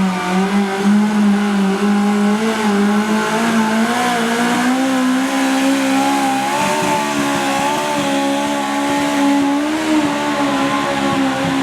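A modified pulling lawn tractor's engine running at high revs under load as it pulls the sled down the track. Its pitch climbs gradually through the run.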